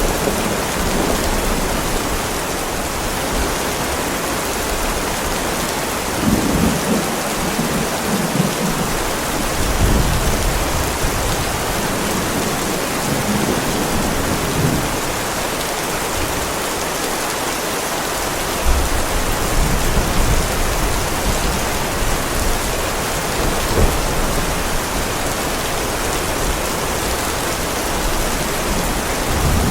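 Heavy rain falling steadily on a driveway, a dense even hiss, with several low rolls of thunder rumbling under it and another building near the end.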